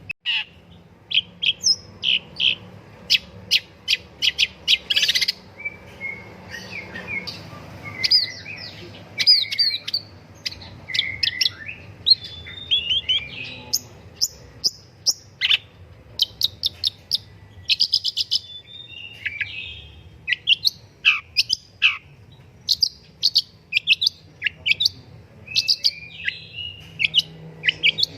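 Long-tailed shrike (pentet, cendet) singing a fast, varied song of sharp high chirps in quick runs, mixed with short slurred notes, some sweeping steeply downward.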